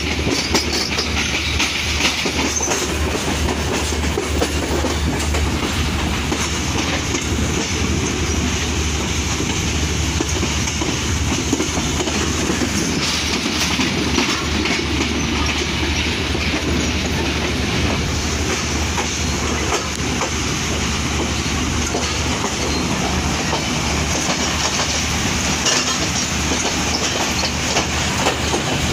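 Passenger train running along the line, heard from an open doorway: a steady rumble with the clickety-clack of wheels over rail joints and points.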